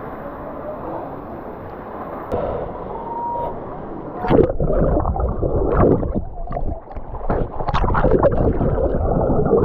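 Water gurgling, then splashing louder and more irregularly from about four seconds in, over a low rumble.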